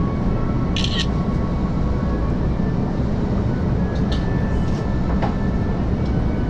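Steady running rumble of a diesel train heard from inside its carriage, with a faint hum and a few short high-pitched sounds.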